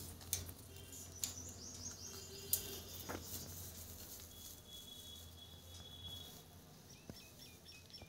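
Bird chirping: a quick run of high chirps about a second in, a thin held whistle for about two seconds in the middle, and a few short chirps near the end, with a few light taps.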